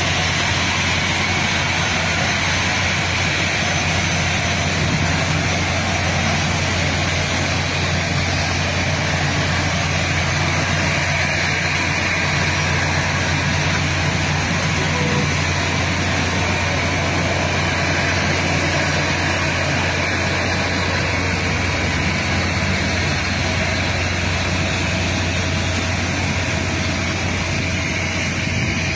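Steady vehicle running noise: a constant low engine hum under an even rushing noise, unchanging throughout.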